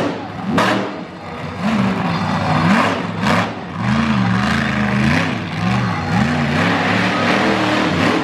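Monster truck engine revving up and down, its pitch rising and falling repeatedly in quick cycles.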